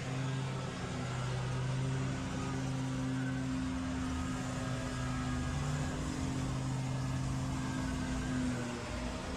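An engine running steadily, with a held low hum over a noisy wash.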